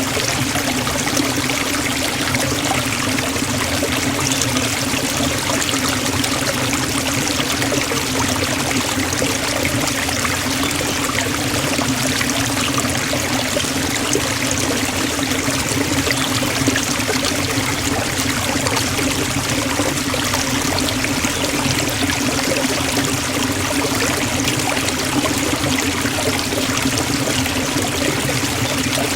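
Forest waterfall, water falling and splashing in a steady, unbroken rush.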